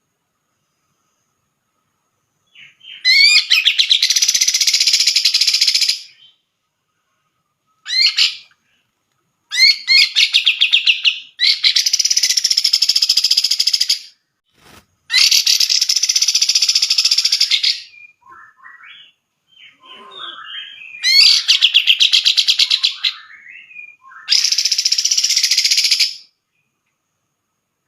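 Cucak jenggot (grey-cheeked bulbul) singing: loud bouts of rapid repeated notes, each one to three seconds long, with a few thinner, softer phrases between the bouts late on.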